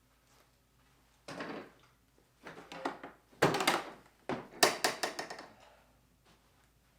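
Hand tools and other garage items being moved and set down, a run of knocks and clatters with the loudest about halfway through, dying away before the end.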